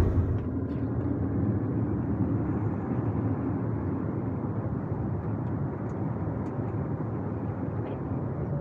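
Steady cabin noise of an Airbus A321neo in flight: the even rush of engines and airflow heard from inside the passenger cabin. A few faint ticks come through about six seconds in.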